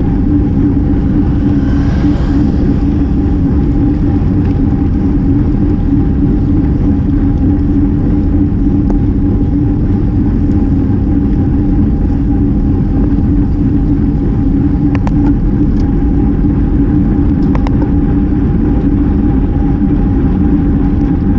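Steady wind rush and road noise from a road bike riding at speed, blowing over an action camera's microphone, with a steady low hum throughout.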